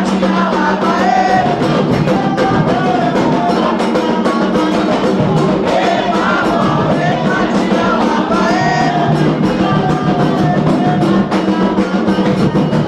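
Candomblé atabaque hand drums playing a steady, driving rhythm for the orixá Oyá, with voices singing a sacred song over it.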